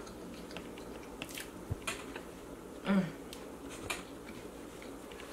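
A person chewing a mouthful of soft, fresh-baked milk bread, with small mouth clicks and smacks. About three seconds in there is a brief hummed 'mm' of enjoyment.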